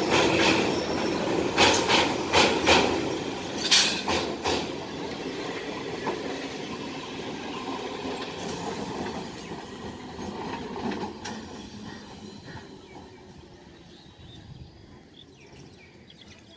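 ICF-built electric multiple unit (EMU) local train running past, its wheels clattering on the rails with several sharp clicks in the first few seconds. The running noise then fades steadily as the train draws away.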